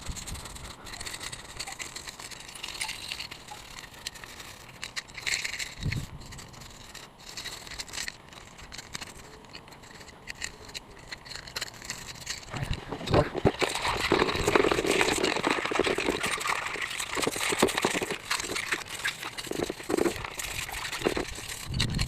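Hands working on scooter wheel parts: scattered clicks, knocks and rattles with some rustling, quieter for the first half and busier from about halfway on.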